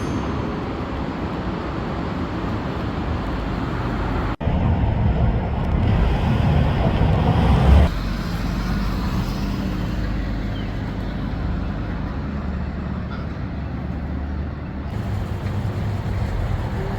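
Street traffic: a steady low rumble of passing cars, cut off and changing abruptly twice, with one vehicle building to the loudest point just before the second cut.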